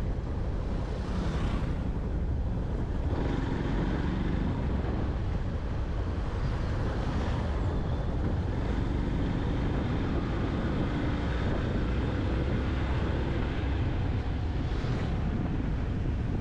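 Yamaha FZ-X single-cylinder motorcycle being ridden along a road: a steady rumble of engine, road and wind, with a few brief swells.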